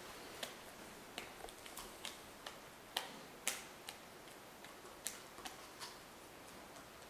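Wolves chewing and crunching their prey: about a dozen irregular sharp cracks and clicks, the loudest around three seconds in.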